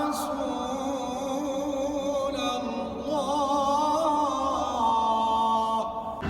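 A man singing a slow, drawn-out melody with long held notes that waver and turn in pitch, in a chant-like style.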